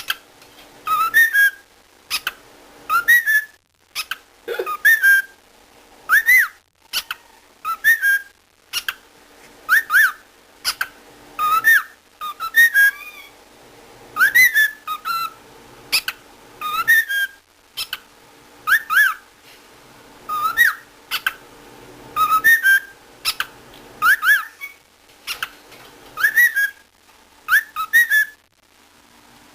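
Cockatiel chirping and whistling in short repeated calls, about one every second or two. Each call is a quick whistle that rises and falls, with sharp clicks.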